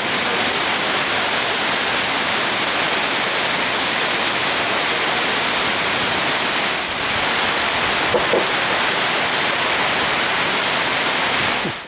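Heavy rain falling hard on corrugated metal roofs and streaming off the eaves, a loud, steady rush.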